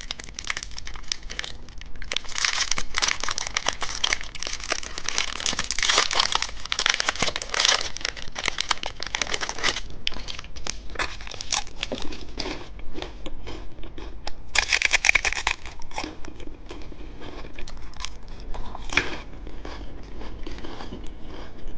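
Crinkly candy packaging being handled and torn open: a dense, crackling crinkle that goes on and off, heaviest in the first half, with a louder burst of crinkling about fifteen seconds in.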